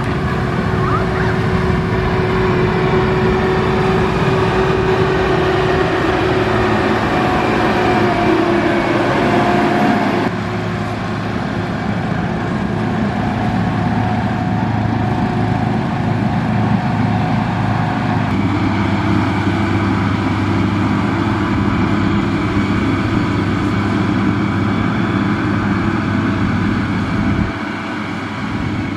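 Diesel engine of a motor grader running steadily, its engine note changing abruptly about ten and eighteen seconds in.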